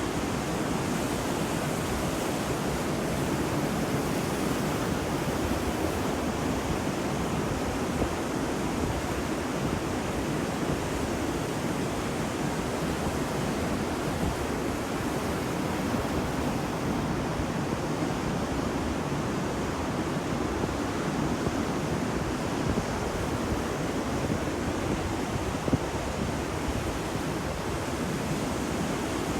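Ocean surf washing onto a beach as a steady, even rush of noise, with no distinct breaks standing out.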